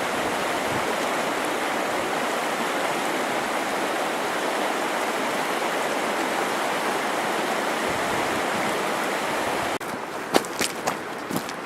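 Steady rushing of a glacial river's water. About ten seconds in it cuts abruptly to a quieter background with a few sharp knocks.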